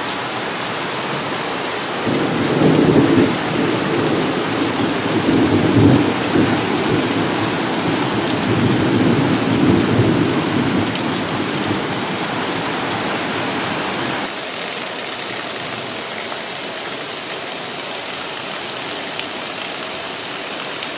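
Heavy thunderstorm rain pouring down steadily, with a long low roll of thunder that starts about two seconds in and rumbles for about ten seconds before fading.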